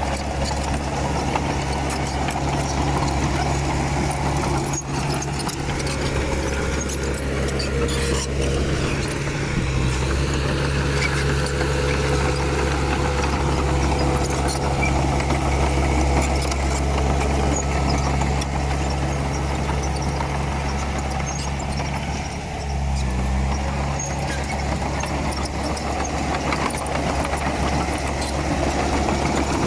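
Komatsu D31P bulldozer's diesel engine running steadily while the dozer works, with a mechanical clatter over it. The engine note shifts briefly about a third of the way in and again about three quarters through.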